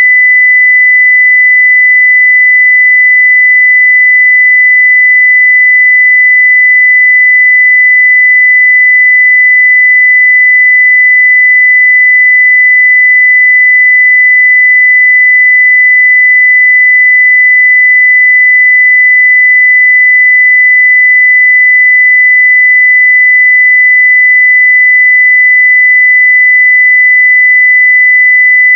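Steady 2 kHz sine-wave test tone at full level (0 dB), a single unwavering high-pitched pitch.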